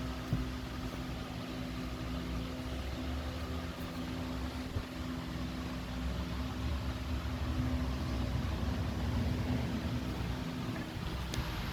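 Steady mechanical hum from a running motor, with a couple of faint clicks.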